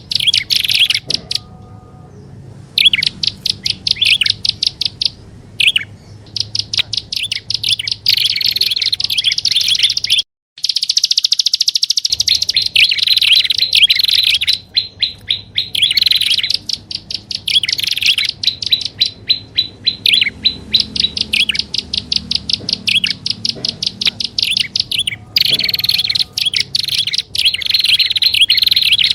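Recorded prinia (prenjak) calls played as a bird lure: fast chattering runs of sharp, evenly repeated high notes in bouts of a few seconds. There are short breaks between bouts, and a brief silent gap about ten seconds in.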